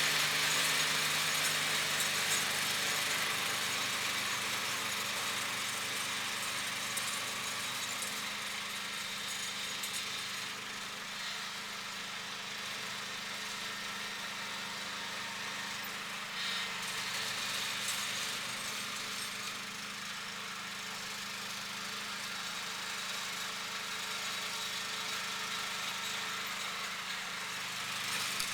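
John Deere lawn tractor engine running steadily while driving a single-stage snowblower attachment, with a steady hiss over the engine note, gradually getting quieter over the first ten seconds.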